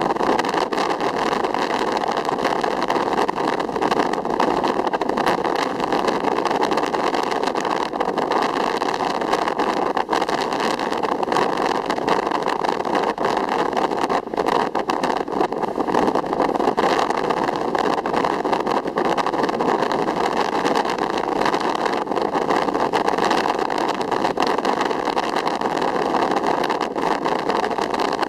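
Steady rushing of ocean water, an even wash of noise without distinct wave breaks or swells.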